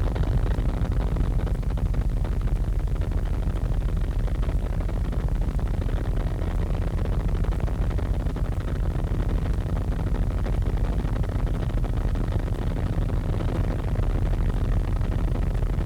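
Helicopter cabin noise: the engine and rotor drone on steadily, heavy in the low end.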